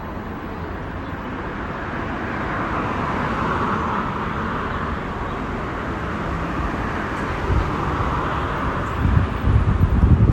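Road vehicle noise that swells around three to four seconds in and then eases, with wind starting to buffet the microphone in the last second or so.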